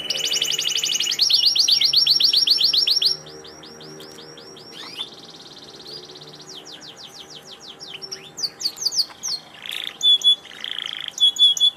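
Domestic canary singing a long, varied song of fast rolling trills, loudest in the first three seconds, then quieter trills and chirps with a few louder notes near the end.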